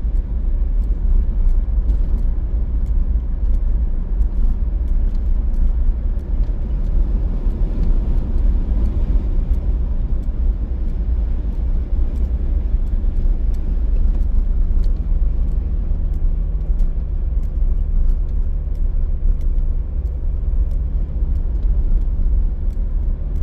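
Car driving along a road: a steady, loud low rumble of engine and road noise. A steady engine hum joins in about two-thirds of the way through.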